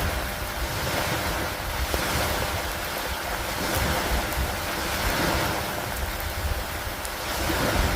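Steady rushing of rain and wind, swelling and easing every few seconds, over a low rumble.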